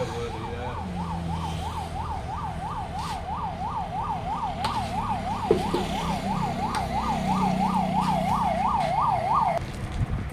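Electronic siren warbling quickly, about three rising-and-falling cycles a second, cutting off shortly before the end, over the steady low hum of an engine.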